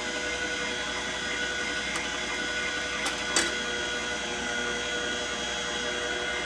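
Aeitto slow masticating juicer running steadily, its motor giving a constant whine; a couple of short clicks a little over three seconds in.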